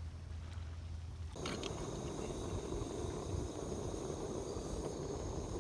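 Outdoor night ambience: steady high-pitched insect chirring over a soft noisy background. It starts abruptly about a second and a half in, after a faint low hum.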